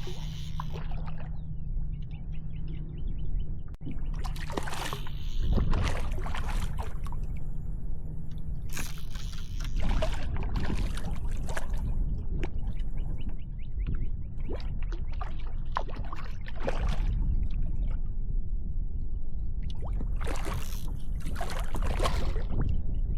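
Wind buffeting the microphone in a steady low rumble, with water sloshing and splashing against a kayak hull in bursts every few seconds.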